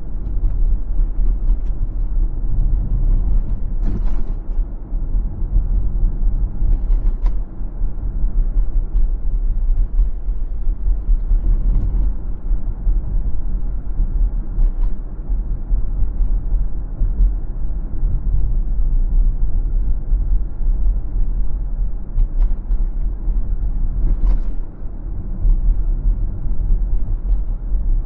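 Car driving on city streets: a steady low rumble of tyres and engine, with a few short clicks and knocks along the way.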